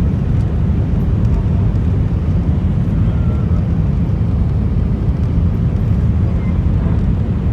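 Airbus A319 airliner, a steady, loud low rumble of engine and airflow noise.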